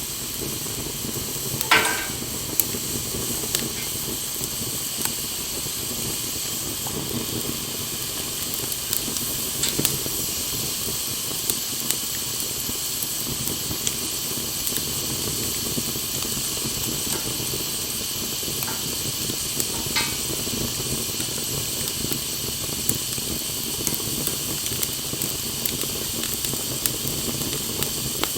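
Wood campfire burning, with a steady hiss and scattered crackles and pops; a louder pop comes about two seconds in.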